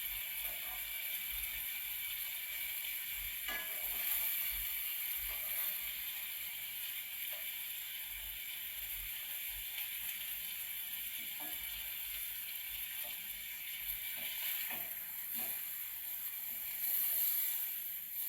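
Chicken breasts and onions sizzling as they fry in a pan: a steady hiss, with a few light knocks of a utensil against the pan.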